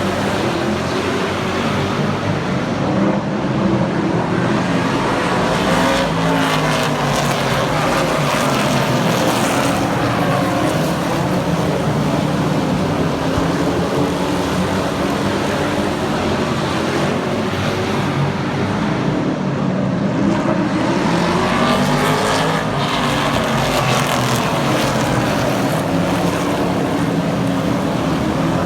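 Several super truck race engines running on a short oval track, their pitch repeatedly rising and falling as the field passes and accelerates through the turns.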